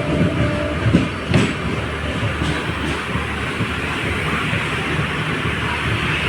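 Train running at speed, heard from aboard its LHB coach: the wheels clack over rail joints a few times in the first second and a half, then a steady rumble.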